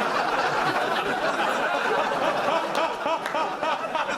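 Studio audience laughing loudly together, with the laughter easing slightly near the end.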